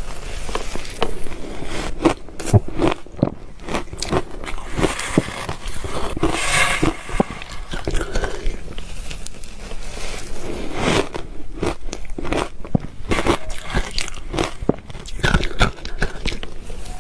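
Ice being bitten and chewed, a steady, irregular run of sharp cracks and crunches as the cubes break between the teeth.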